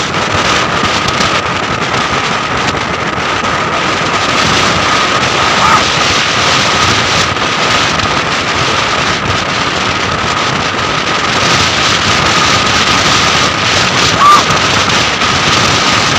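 Steady rush of wind on the microphone over the noise of a moving vehicle on the road, with a steady high whine in it.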